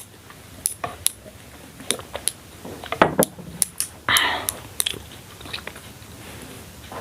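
A person chewing and swallowing a mouthful of food close to the microphone, with scattered wet mouth clicks and a short breathy noise about four seconds in.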